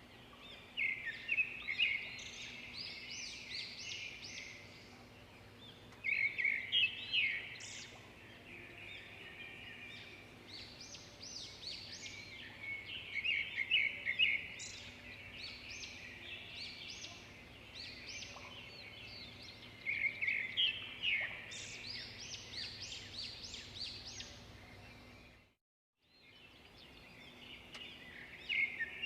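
Several songbirds chirping and trilling in a busy chorus, the calls coming in clusters every few seconds. The sound cuts out completely for about a second near the end.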